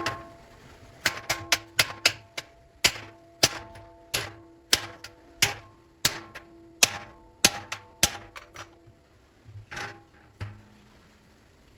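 Hammer blows on a metal cooking pot, roughly two a second at an uneven pace, each ringing briefly with a metallic tone. The blows thin out and stop near the end.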